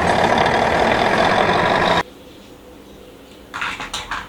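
A steady engine-like noise cuts off abruptly about two seconds in. A brief, higher-pitched scratchy sound follows near the end.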